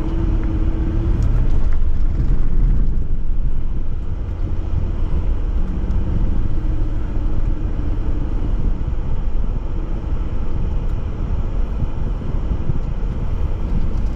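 A Jeep driving offroad, its engine running with a steady low rumble that is a little louder for a couple of seconds near the start.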